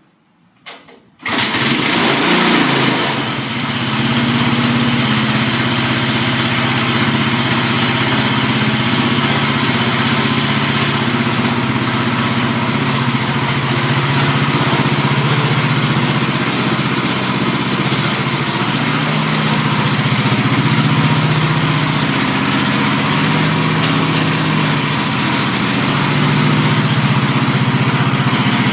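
Tecumseh engine of a Sears garden tractor cold-starting about a second in, catching at once. It is loudest for the first couple of seconds, then settles into steady running.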